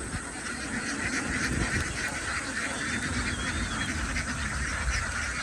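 A large flock of ducks quacking all at once in a dense, continuous chatter.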